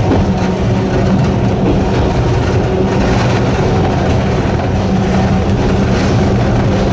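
Sangi Railway Hokusei Line narrow-gauge electric train running at steady speed: the even hum of its nose-suspended traction motors over the rumble of wheels on rail.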